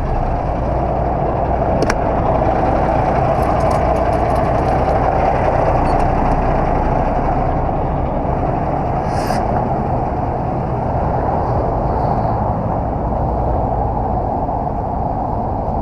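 Steady, loud noise of a truck running, a rumble with a broad mid-range rush and no change in pitch.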